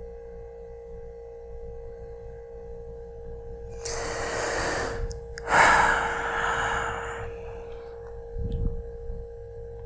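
A person's two long, audible breaths, like a deep breath and a sigh, the second louder, over a steady humming tone.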